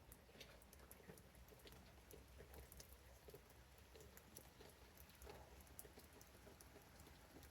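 Near silence, with faint, scattered ticks of light rain pattering.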